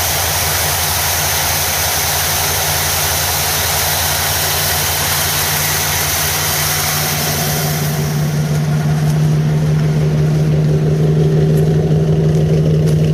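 Chevrolet 305 V8 in a 1979 Caprice running at a steady idle, just cold-started after sitting two years, with a little gas poured in the carb. A hiss over the engine note thins out about eight seconds in, and the engine note grows a little stronger and louder.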